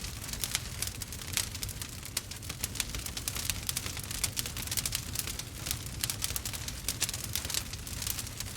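Wood fire crackling: many small irregular snaps and pops over a low steady rumble of burning logs.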